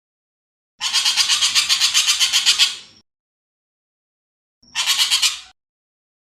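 Ekek keling bird giving a harsh, rasping chattering call. A rattle of rapid notes, roughly eight a second, lasts about two seconds, then a shorter burst follows about four and a half seconds in.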